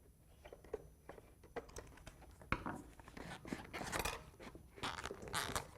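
A hose being worked off a Vanguard 810cc engine by hand: scattered faint clicks, creaks and scrapes.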